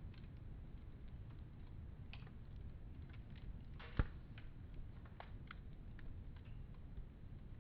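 Wood fire crackling, with scattered small snaps and one sharp pop about four seconds in, over a low steady rumble.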